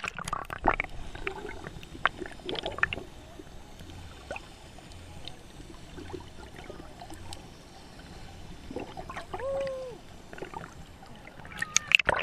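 Sea water sloshing and lapping close to the microphone, with scattered small splashes and clicks. A short wavering tone comes about nine and a half seconds in.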